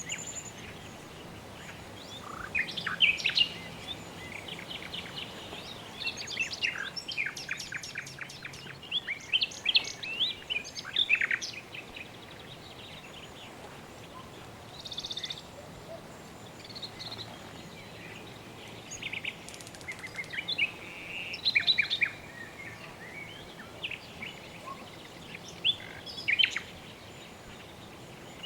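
Birds chirping and singing in clusters of quick, high chirps and short trills, over a steady soft hiss of background ambience.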